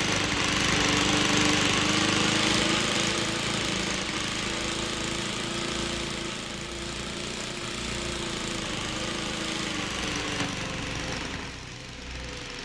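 A loud, steady, engine-like drone with a pulsing low rumble, which drops off about eleven and a half seconds in.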